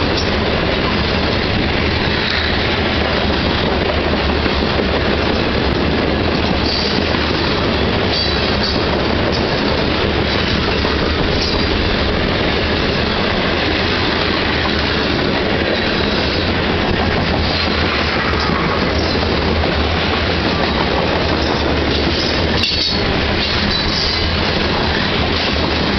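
Covered grain hopper cars of a freight train rolling past close by: a steady, loud rumble and clatter of steel wheels over the rail joints, with brief high-pitched wheel squeals now and then.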